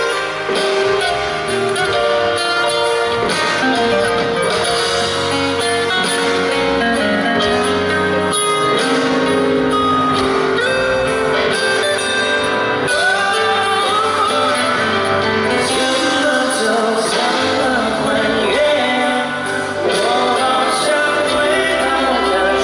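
Live pop band music with singing, a continuous stretch of the song.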